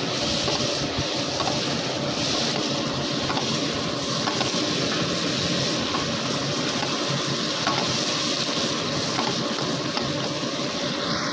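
Boneless chicken pieces and freshly added ground spices sizzling steadily in hot oil, stirred and turned with a silicone spatula: the masala being fried with the half-fried chicken (bhuna).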